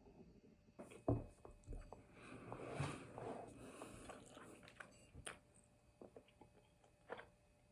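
Quiet breakfast eating sounds: chewing, with scattered small knocks and clicks and a firmer thump about a second in.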